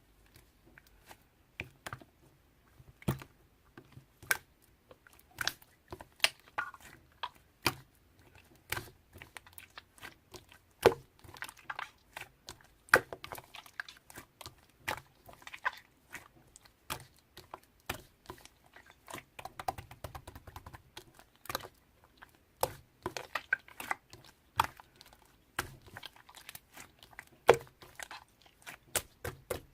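Marbling slime being squished and pressed by hand, making irregular sticky clicks and pops, a few at first and coming several a second later on.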